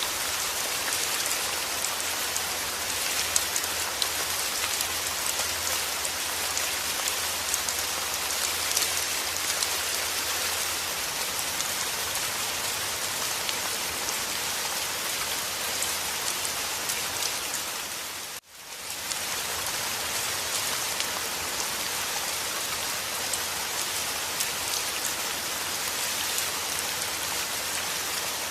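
Steady rain with a dense patter of drops. About two thirds of the way through it dips briefly almost to silence and then swells back.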